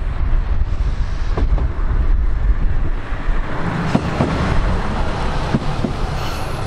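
Ibara Railway IRT355 diesel railcar approaching and passing close by, its running noise rising as it draws level, with a few sharp wheel clicks from about four seconds in. Heavy low rumble from wind on the microphone during the approach.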